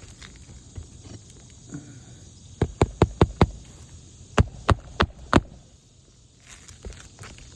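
Hammer strikes driving roofing nails while fastening a replacement asphalt shingle: a quick run of five blows, then four more, more spaced.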